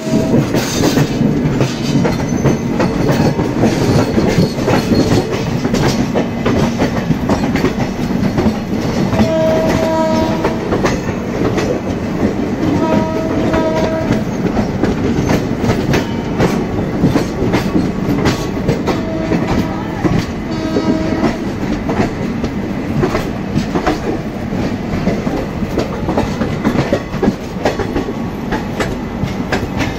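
Two Indian Railways passenger trains running past each other at close range: a steady rumble of wheels with clattering over the rail joints. A locomotive horn sounds several short blasts partway through.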